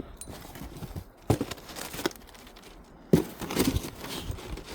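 Cardboard boxes and recycling being handled: rustling and crinkling with several sharp knocks, the loudest about three seconds in.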